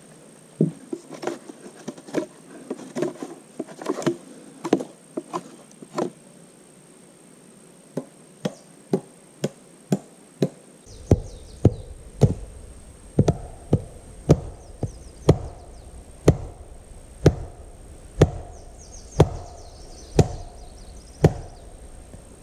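Wood being chopped with a blade into dead, rain-soaked timber for firewood: a long run of sharp blows. The blows come irregularly at first, stop briefly about 6 seconds in, then go on evenly at one to two a second.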